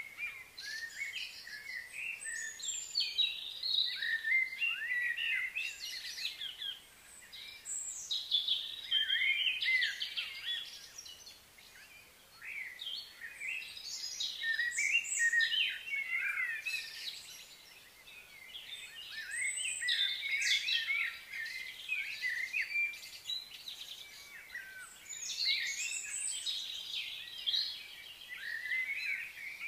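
Many small birds chirping and singing together: a dense chorus of short, overlapping calls that rise and fall in pitch, swelling and easing in loudness every several seconds.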